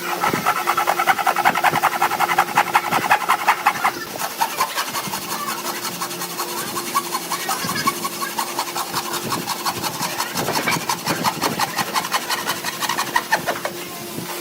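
Rapid, rhythmic scraping of a hand tool on wood, many quick strokes a second, loudest in the first few seconds, over a faint steady hum.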